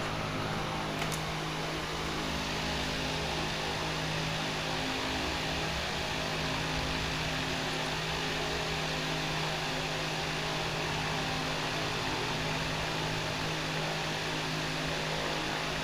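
A fan running steadily: an even airy hiss over a low, constant hum.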